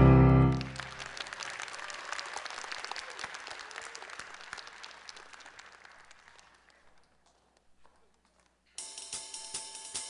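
Live band music ends on a loud held chord about half a second in, followed by audience applause that fades away over several seconds. Near the end a new piece starts, with drums and cymbals beating time.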